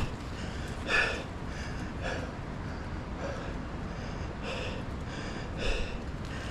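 A man breathing hard and out of breath after a steep climb, with a loud breath about every second.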